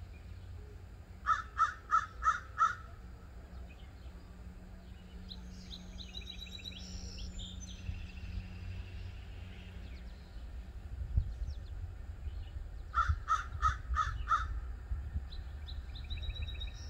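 A bird calling in two runs of five quick, evenly spaced calls, one about a second in and another near the end. Between them a smaller bird sings briefly in high chirps, over a steady low rumble.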